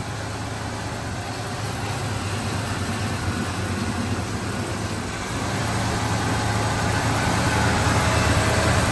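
1964 Mercury Comet Caliente engine running at a steady idle, still cold from a cold start, growing somewhat louder over the last few seconds.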